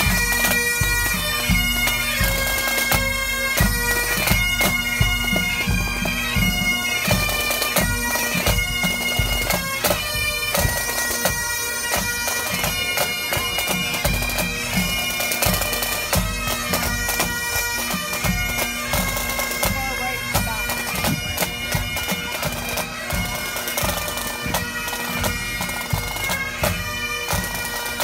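Pipe band playing on the march: Great Highland bagpipes playing a tune over their steady drone, with snare and bass drums beating time. The sound slowly fades as the band moves away.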